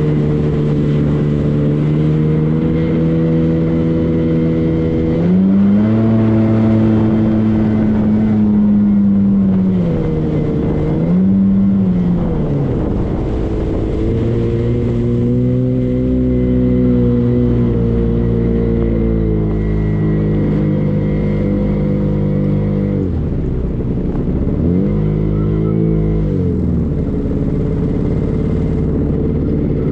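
Motorboat engine running under way, its note rising and falling several times as the throttle changes.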